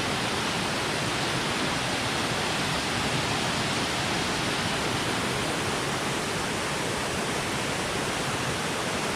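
A tiered waterfall rushing with a steady, even sound of falling water.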